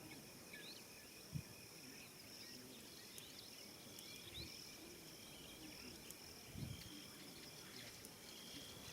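Faint evening savanna ambience: a steady high insect drone with scattered short bird chirps, and two soft low thumps, about a second and a half in and again near seven seconds.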